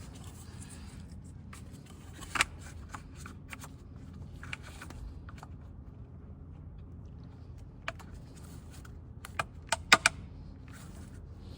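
Scattered light clicks and taps of hands fitting a plastic cover and its push-on plastic nuts, with a cluster of sharp clicks about ten seconds in.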